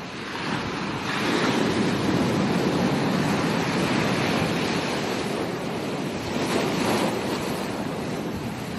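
Ocean waves breaking on a beach: the surf swells about a second in, rushes on for several seconds and eases off near the end.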